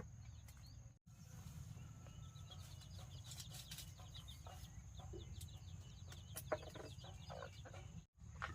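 Chickens clucking faintly, with a run of quick high chirps about three seconds in, over a steady high-pitched whine.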